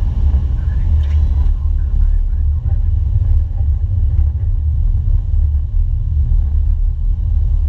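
Steady low rumble of airflow and engine noise on an Airbus A330-300 flight deck in flight.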